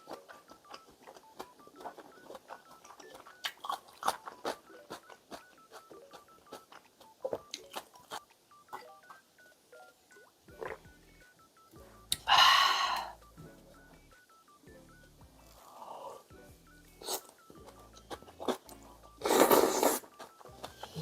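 Soft background music with a plinking melody, joined by a bass line about halfway, over close-up eating sounds: many small clicks and chewing, and two loud slurps of ramyeon noodles, one about halfway and one near the end.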